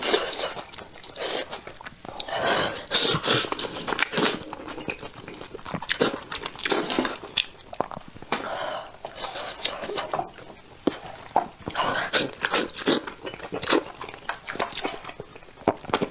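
Close-miked eating sounds: chewing and smacking on braised sheep's head meat, with the meat being torn apart by hand, in irregular bursts and clicks.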